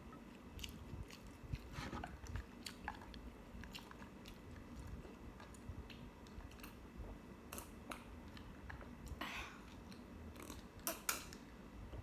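A person chewing food close to the microphone, soft and steady, with scattered short mouth clicks and smacks; a few louder smacks come near the end.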